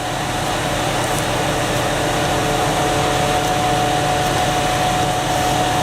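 Industrial wood chipper running steadily at speed: a dense rushing noise with a held whine over it. It fades up over about the first second.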